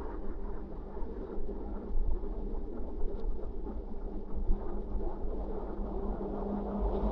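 Wind rumbling and buffeting the microphone while riding a bike, over a steady low hum.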